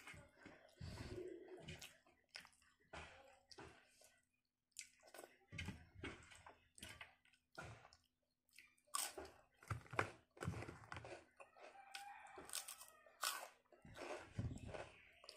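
Close-up chewing and mouth sounds of a person eating rice and side dishes by hand, with irregular short crunches and smacks.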